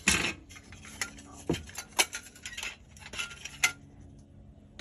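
Hard plastic model-kit parts being handled, clicking and knocking against each other: a sharp click right at the start, then a handful of lighter clicks and taps spread over the next few seconds.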